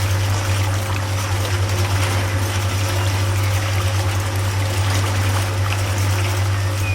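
Steady low hum of a small motor over water trickling and pouring.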